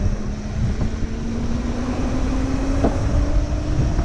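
Wind buffeting the microphone on a moving electric moped, over the steady whine of its electric motor, which rises slowly in pitch as the bike speeds up. A brief knock sounds about three seconds in.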